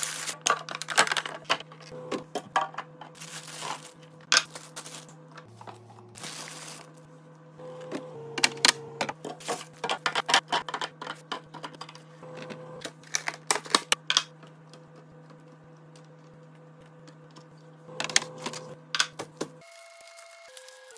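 Quick, irregular clicks and clacks of hard items and containers being handled and set in place while a fridge is organised, over faint background music with held notes. The clicking dies down for a few seconds and picks up again near the end.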